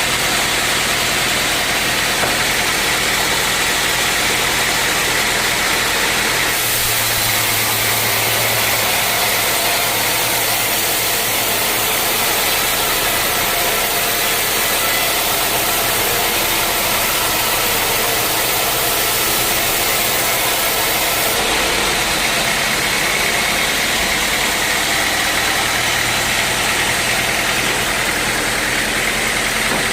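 Sawmill machinery running steadily: a loud engine-like drone with a dense hiss. The high hiss changes about six seconds in and changes back about two-thirds of the way through.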